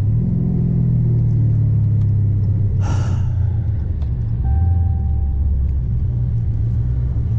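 Twin-turbo Dodge Challenger Hellcat's V8 running at low revs with a steady deep rumble. A brief hiss comes about three seconds in, and a short steady beep a second or so later.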